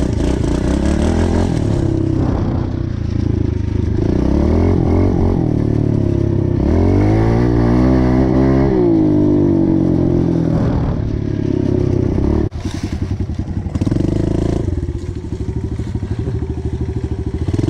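Pit bike engine running and revving up and back down several times, with one long high rev climbing and falling about seven to nine seconds in. The sound drops suddenly about twelve seconds in, and the engine then runs on at a lower, steadier pitch.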